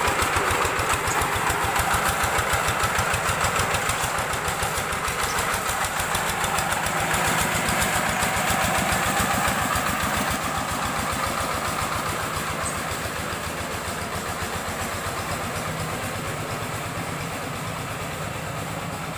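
Rice-field hand tractor's engine idling steadily while warming up, with a rapid, even pulse of firing strokes; it grows slightly quieter over the last several seconds.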